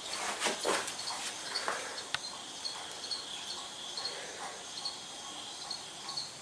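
Crickets chirping steadily in the background, with a few faint knocks and rustles of handling.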